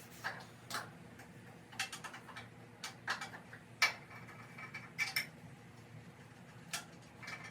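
Irregular light clicks and clinks of metal tools and parts being handled, a couple of them with a short metallic ring.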